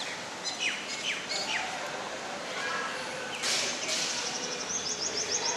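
Birds calling: three quick falling chirps about a second in, a short harsh call midway, and a fast run of high repeated notes near the end.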